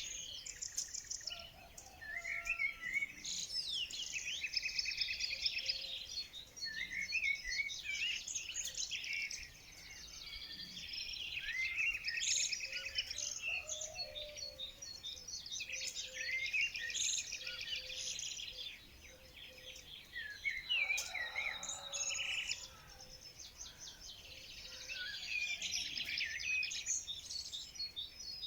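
A chorus of many birds singing and chirping at once, with overlapping trills and quick high whistles and brief lulls about two-thirds of the way through.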